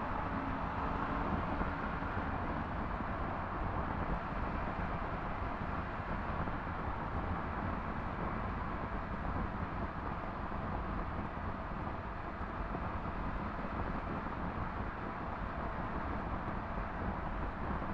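Yamaha MT-10 SP's crossplane inline-four with an Akrapovič exhaust, running steadily while the bike is ridden along, mixed with wind and road rush. The sound stays even throughout, with no revving or gear changes.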